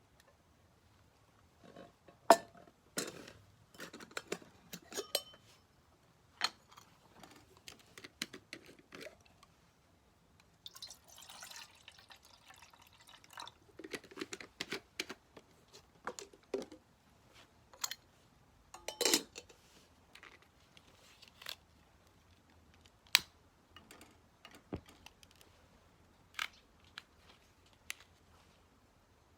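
Tea utensils being handled: scattered light clinks, taps and knocks, with a few seconds of liquid pouring about eleven seconds in.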